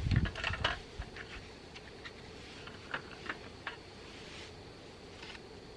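Scattered light clicks and taps of small objects being handled, with a low thump at the very start.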